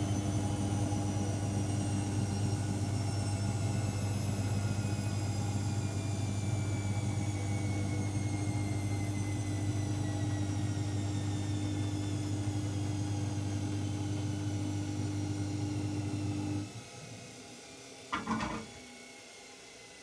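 AEG Lavamat L74810 washing machine at the end of a spin: a high motor whine falls slowly as the drum coasts down, over a steady hum, typical of the drain pump, which cuts off suddenly near the end. A brief clatter follows a second and a half later.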